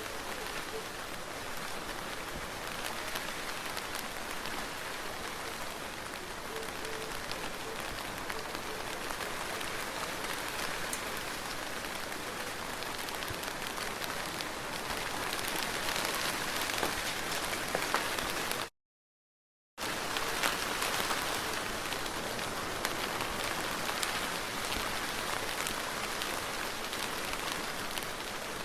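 Soft, steady rain: an even hiss with fine pattering drops. About two-thirds of the way through it cuts out to complete silence for about a second, then resumes.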